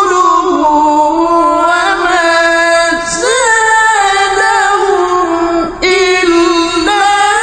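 A male qari's sung, melodic Qur'an recitation, one voice drawing out long, ornamented melismatic notes that bend up and down. There is a short break about three seconds in and another near six seconds.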